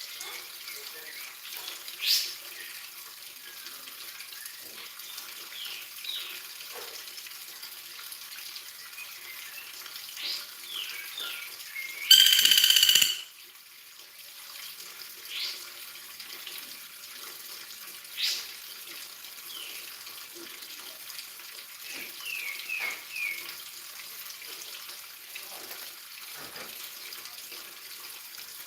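A small bird chirping: short, sharp, falling chirps, singly and in quick runs of two or three, scattered over a steady hissing background like running water. About twelve seconds in, a loud buzzy tone lasting about a second stands out above everything else.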